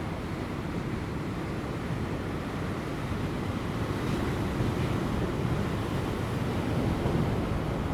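Ocean waves breaking on rocks, a steady surf wash that swells a little louder in the second half, with light wind buffeting the microphone.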